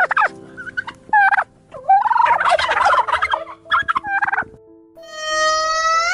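A series of short animal calls over light background music, with a rapid rattling burst of calls about two seconds in, and one long call rising in pitch near the end.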